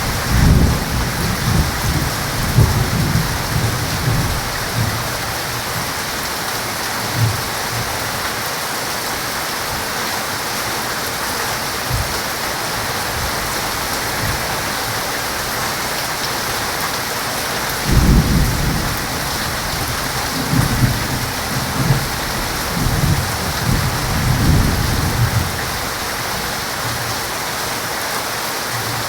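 Heavy rain falling steadily, with rolling thunder: a long rumble at the start and another from about the middle to near the end, and a single sharp crack between them.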